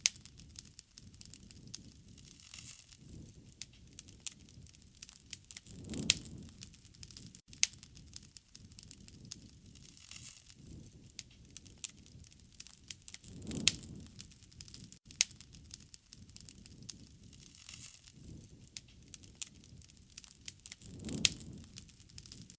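Wood fire crackling, with many sharp pops and snaps over a soft hiss, and a low rush of flame swelling up every three to four seconds.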